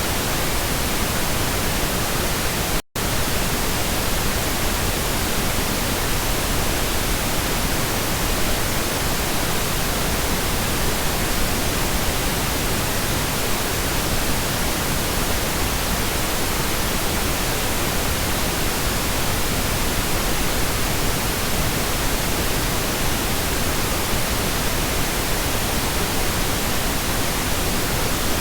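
Steady, even synthetic pink noise with no tones or rhythm, broken once by a split-second silent gap about three seconds in.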